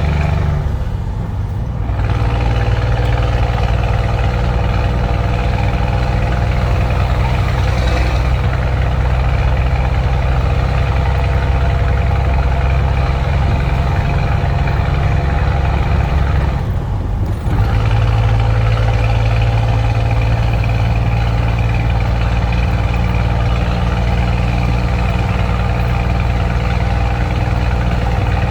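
Scania truck engine with a straight-through exhaust running steadily on the road. It dips briefly twice, about a second in and again around seventeen seconds in, and after each dip the engine note settles at a new pitch.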